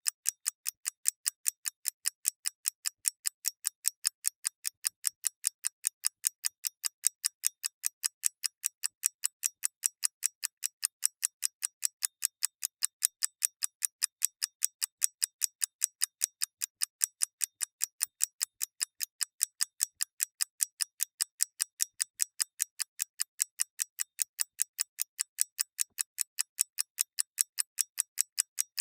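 Clock ticking: a steady, even train of crisp, sharp ticks, several a second, without pause.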